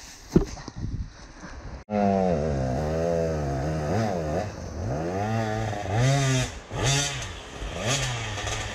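Two-stroke enduro motorcycle engine being ridden. After a quieter opening with a few knocks, the engine comes in abruptly about two seconds in and revs up and down again and again, its pitch rising and falling every second or so.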